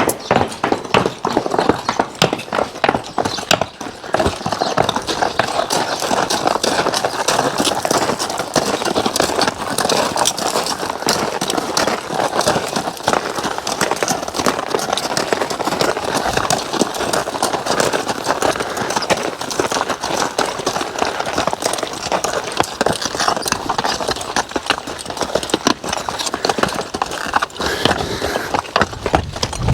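Draft horses walking with hooves clopping, over a dense, steady clatter of rattling harness and horse-drawn equipment.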